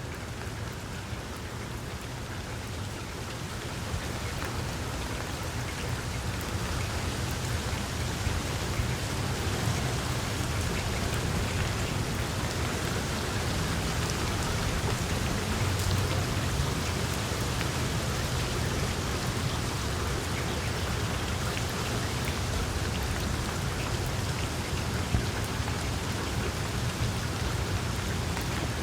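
Wood fire in a fireplace crackling: a dense run of small pops and snaps over a low steady rumble, growing louder over the first several seconds.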